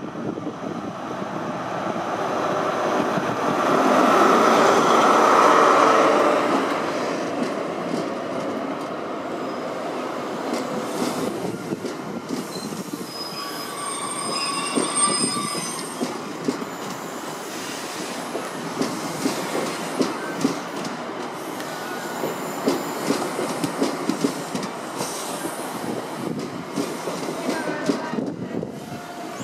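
A First Great Western HST arrives at the platform. The Class 43 diesel power car passes loudest about four to six seconds in, then the Mark 3 coaches roll by with rapid clicks over the rail joints. A brief high wheel and brake squeal comes around the middle as the train slows.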